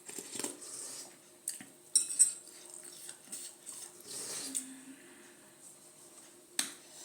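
Eating utensils clinking and scraping against dishes, with a few sharp clinks about two seconds in and another near the end.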